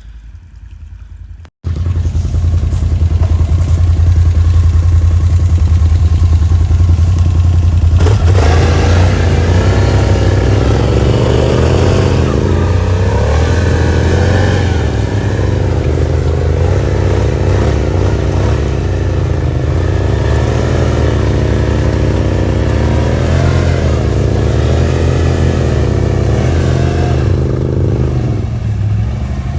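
Can-Am 850 XMR ATV's V-twin engine running hard under throttle, stuck in deep mud. It starts abruptly about a second and a half in, and its pitch wavers up and down from about eight seconds in.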